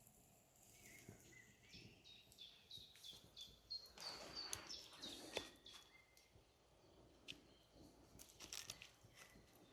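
Faint bird calls: a run of short high chirps repeated about twice a second, stepping up in pitch. A brief crunching rustle with sharp clicks comes about four to five seconds in, and scattered clicks follow near the end.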